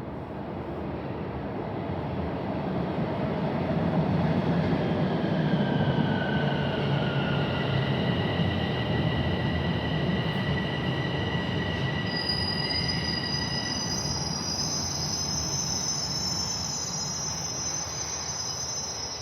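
Light rail vehicle running, heard from inside: a steady rolling rumble that builds over the first few seconds, with held whining tones. About two-thirds of the way through, a high-pitched wheel squeal sets in and keeps going.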